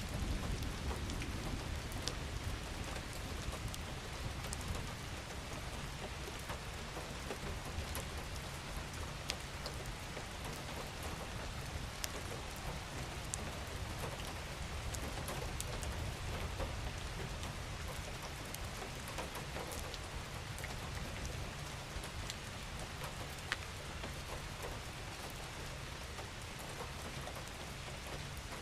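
Steady gentle rain falling, with scattered sharp drop ticks over an even hiss and a low rumble underneath, heaviest in the first second or two.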